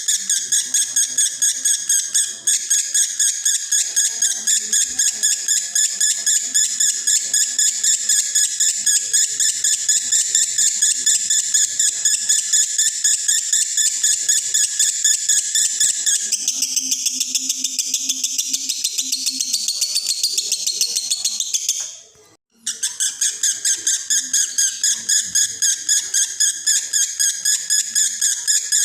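Male lovebird singing the long, unbroken 'konslet' chatter of a bird in breeding condition: a rapid, steady stream of high chirps, about four pulses a second. The pattern changes about two-thirds of the way through, then breaks off briefly and resumes.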